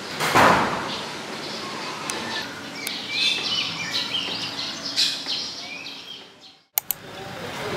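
Birds chirping and calling over a steady outdoor background hiss, with a brief rush of noise about half a second in. The sound cuts off abruptly near the end.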